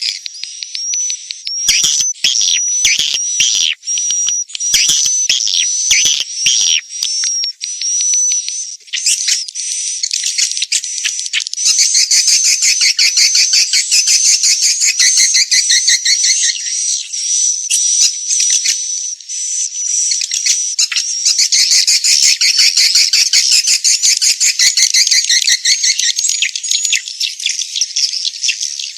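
Edible-nest swiftlets twittering, as on a swiftlet-house lure-call recording. It opens with a run of separate high chirps, about two a second. From about nine seconds in it turns into a dense, continuous chorus of rapid high twitters.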